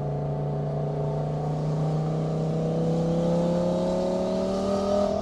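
Car engine running under light throttle, its note climbing slowly and steadily as it gathers speed.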